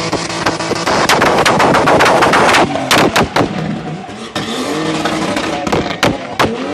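BMW E30 drift car's engine revving high through a loud exhaust, with rapid volleys of sharp exhaust cracks and pops, thickest about three seconds in and again near the end.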